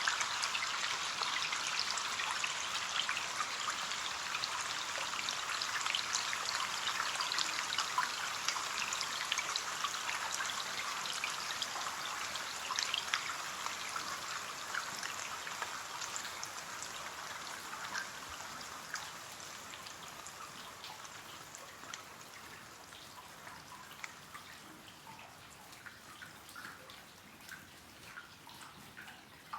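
Rain falling on a window pane: a steady hiss of many small drop ticks that gradually grows quieter, with single drips standing out near the end.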